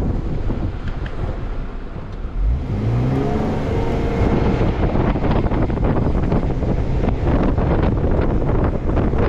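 Jeep Wrangler JK engine revving up as it accelerates about two seconds in, its pitch rising, over a steady rumble of tyres churning through deep snow, which grows louder once it picks up speed.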